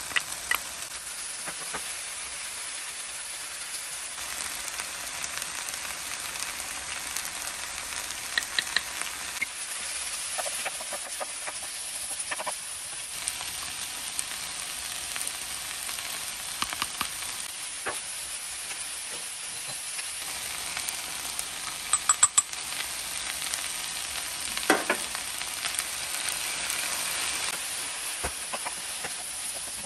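Chopped cuttlefish and vegetables sizzling in a hot pan, a steady frying hiss. A few sharp clicks break in now and then, the loudest a quick run of about four a little past two-thirds through.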